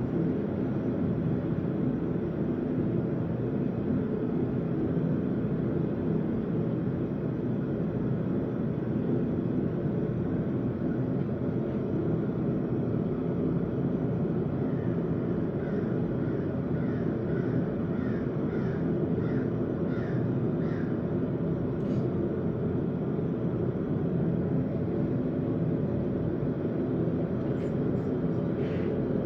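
Steady low roar, most likely the forge running, throughout. Partway through comes a quick series of about eight short cawing calls from a crow, and near the end a couple of sharp metallic taps.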